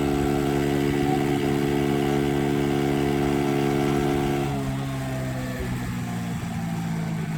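Lazer 6 50cc moped engine running at a steady speed, then easing off about four and a half seconds in, its note dropping slightly in pitch and level.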